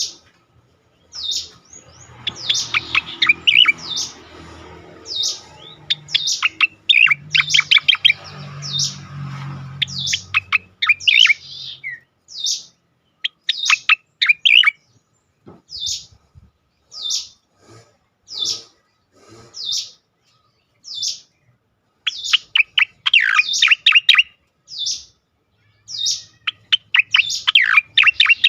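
Cica koreng (striated grassbird) singing in its lively 'ngejoss' style: a run of short, sharp, high notes that slide downward, some bunched into quick chattering trills, with brief pauses between phrases. A faint low hum runs under the first few seconds and returns near the end.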